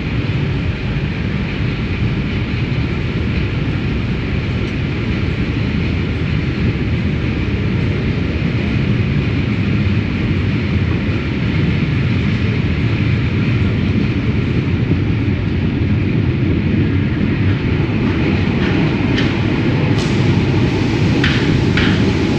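Locomotive-hauled passenger train running along the line, heard from aboard: a steady rumble of wheels and coach, slightly louder toward the end, with a few faint clicks near the end.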